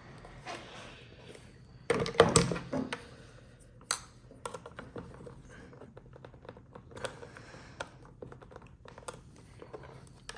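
Hands fumbling with and prying at a stubborn fidget-toy case that won't open: a run of small clicks and scratches, with a louder clatter of handling about two seconds in.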